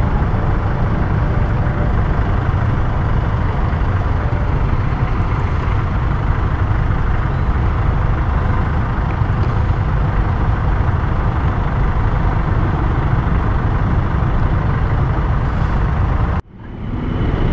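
Steady engine rumble of slow, congested traffic: motorcycles and a jeepney creeping along in a tight queue, heard from a motorcycle among them. The sound cuts out abruptly about a second before the end, then comes back.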